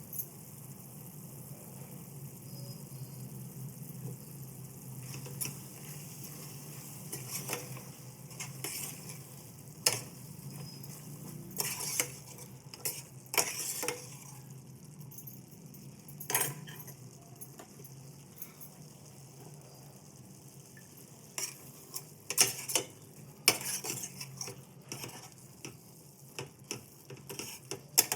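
Metal spoon stirring and scraping in a cooking pan, with scattered sharp clinks against the pan, over a steady low hum.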